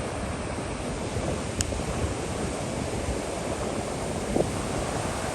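Steady ocean surf washing on the beach, mixed with wind noise on the microphone.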